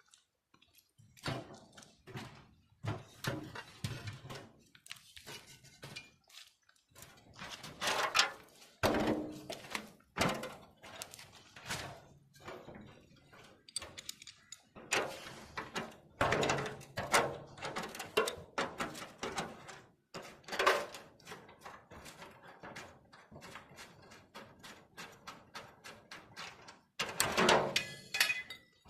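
Irregular knocks, thunks and clatter of hands-on metal repair work on a wheelbarrow, with short pauses between bursts.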